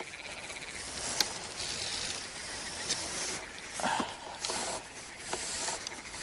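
Rustling and hissing handling noises with a few sharp clicks, as a freshly landed crucian carp is handled and unhooked.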